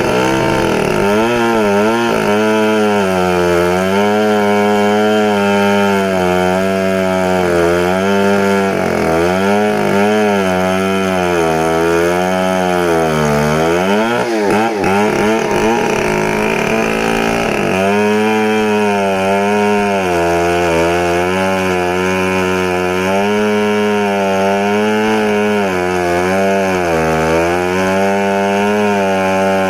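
Large two-stroke chainsaw, a Stihl 070, running hard while cutting through a log. Its engine pitch keeps sagging and picking back up under the load of the cut, with a deeper drop about halfway through before it climbs back to speed.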